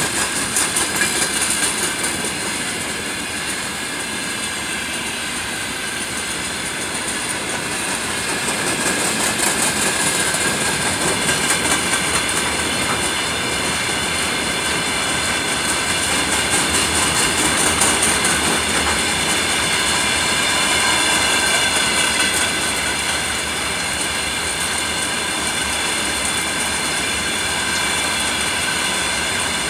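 Freight train wagons rolling steadily past: wheels clattering over the rail joints in a continuous rumble, with a faint high steady whine above it.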